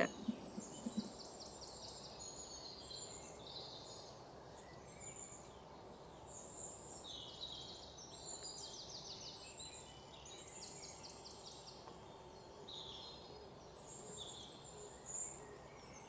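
Faint chirps, short downward-gliding calls and quick trills of small birds over a steady low hiss.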